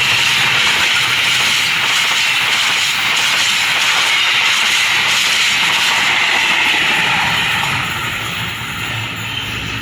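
A train passing close by at speed: a loud, steady rush of wheels on rails that eases off near the end.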